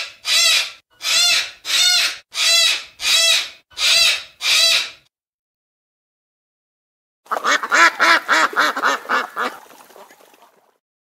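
Bird calls: a steady series of loud, evenly spaced calls, about two a second, that stops about five seconds in. After a short gap comes a quick run of lower, rapid calls that fades away.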